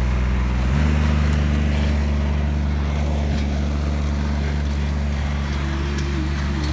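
Tractor engine running steadily, its speed stepping up a little about a second in and holding there.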